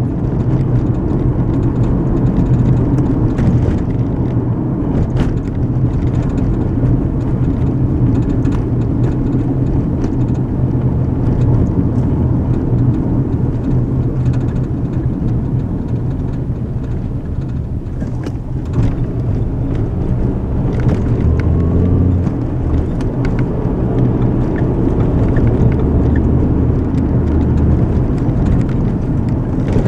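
Steady low rumble of tyres and engine heard inside a moving car's cabin, with occasional faint ticks.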